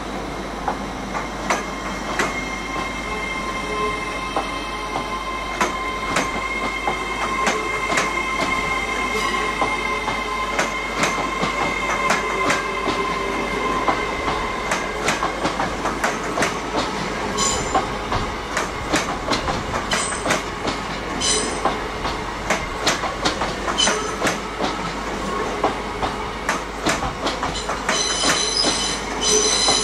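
A train passing slowly, its wheels clicking over the rail joints in an irregular stream while a steady high-pitched wheel squeal sounds through roughly the first half and then fades.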